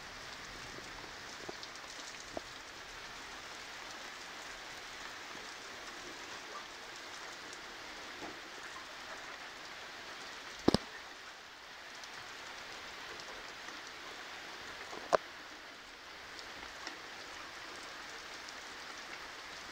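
Heavy rain falling steadily in a thunderstorm, a continuous hiss of rain. A few sharp knocks stand out: a loud double knock about halfway through and a single one about three quarters through.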